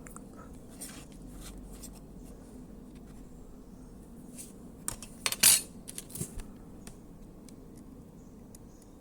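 Scattered light clicks and clinks of small hard objects being handled, with one louder clatter about halfway through.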